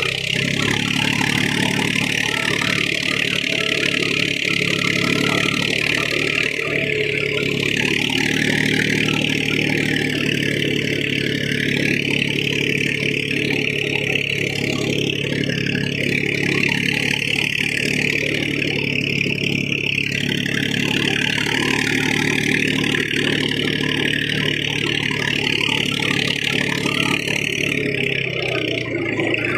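Tractor engine running steadily while pulling a cultivator through a field, its note dropping near the end.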